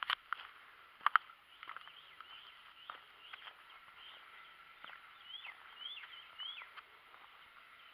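Small birds chirping: a run of short, quick down-slurred notes, with three louder rise-and-fall chirps about two-thirds of the way through. A few sharp taps near the start, like footsteps on concrete.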